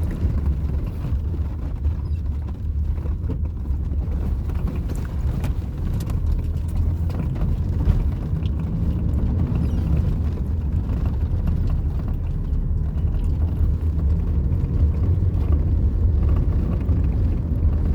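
Steady low rumble of a moving vehicle, with faint scattered rattles over it.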